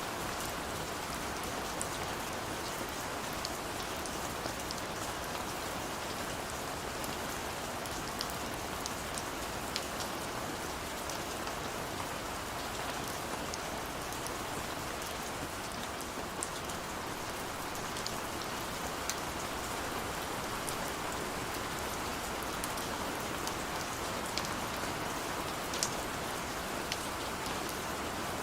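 Steady rain falling on surfaces, an even wash of noise with scattered sharp drop ticks.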